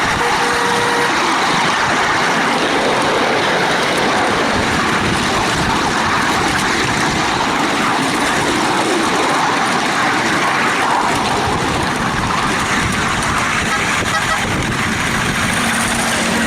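Steady running noise of a 7¼-inch gauge miniature train heard from on board: its wheels roll along the rails and the locomotive runs without a break.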